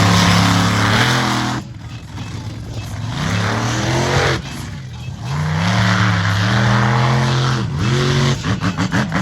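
Monster truck engine revving hard under full throttle. The revs drop sharply twice, about a second and a half in and again around four and a half seconds, each time climbing back up.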